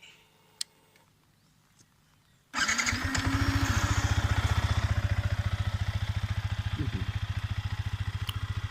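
Yamaha XSR155 motorcycle's single-cylinder engine running with a fast, even pulse. It comes in abruptly about two and a half seconds in, after near quiet, and holds steady.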